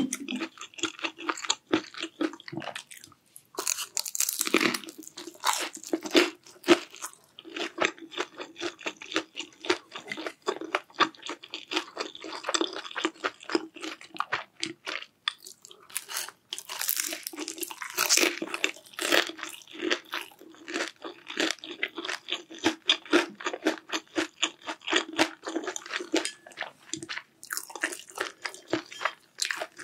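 Close-miked chewing and crunching of crisp pan-fried dumplings (gunmandu), a rapid run of crunchy bites with brief pauses about three seconds in and halfway through.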